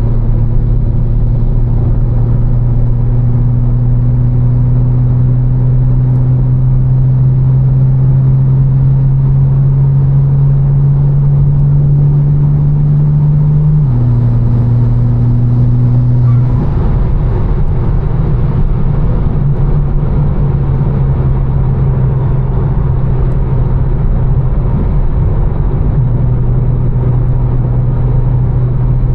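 Tuned BMW M4 with catless downpipes and a Fi exhaust, droning steadily at cruise under a haze of road and tyre noise. The drone's pitch creeps up slowly and steps once about 14 seconds in. A few seconds later the drone fades back and road noise takes over.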